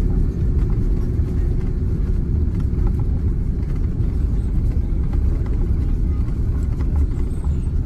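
Steady low rumble of an Airbus A330-300 heard from inside the passenger cabin, with a few faint light rattles.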